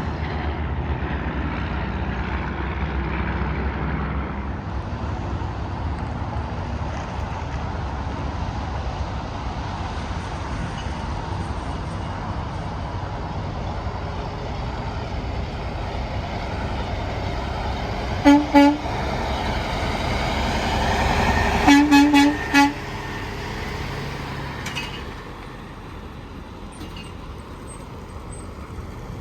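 Steady interstate traffic noise with trucks passing. A truck horn gives two short honks about eighteen seconds in, then a quick run of three or four short honks a few seconds later.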